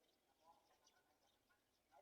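Faint, scattered short bird chirps, barely above near silence.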